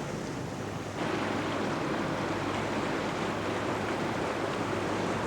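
Steady rush of wind and water noise aboard a sailboat, getting suddenly louder about a second in.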